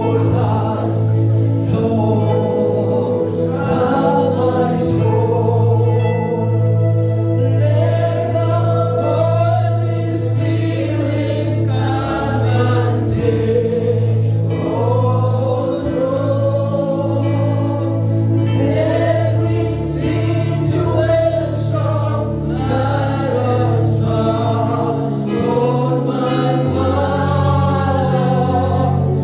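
Choir singing a gospel worship song over a steady bass accompaniment.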